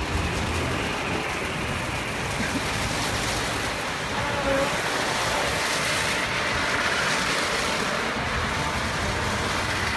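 Christ SIRIUS automatic car wash machine running: a steady rushing of water spray with a low machine rumble underneath.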